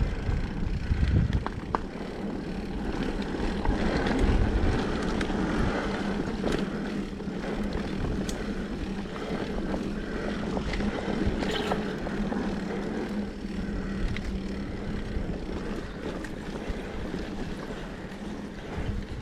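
Mountain bike rolling down a dirt trail: steady tyre and wind noise, with scattered clicks and knocks as the bike rattles over the ground.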